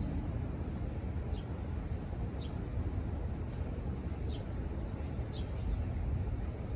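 A bird giving short, high chirps, about four of them a second or so apart, over a steady low rumble.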